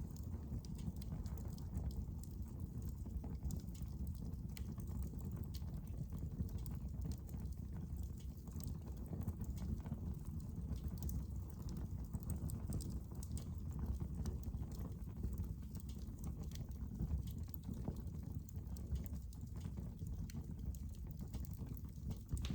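Wood fire crackling in a fireplace: a steady low rumble of burning with frequent small, sharp crackles and pops scattered throughout.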